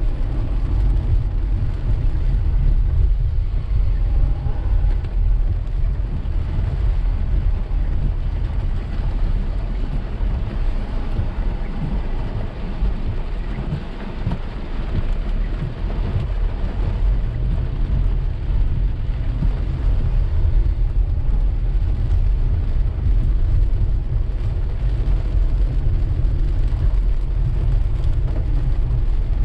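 Driving a car through steady rain: a steady deep rumble of the moving car with the even hiss of rain on the car.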